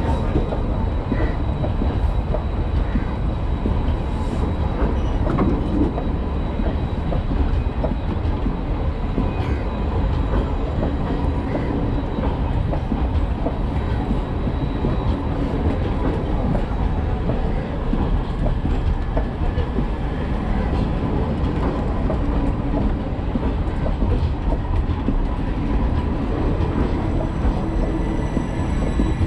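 Railway coaches rolling past along the platform: the steady running noise of steel wheels on the rails.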